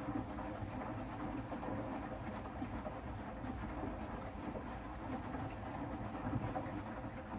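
Hoover DXOA front-loading washing machine running mid-cycle, a steady drum rumble that begins to die away right at the end.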